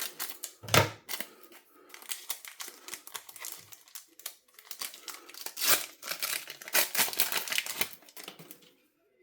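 Foil wrapper of a small Pokémon booster pack crinkling and tearing as it is opened by hand: a dense run of crackles, with a soft knock about a second in, that stops shortly before the end.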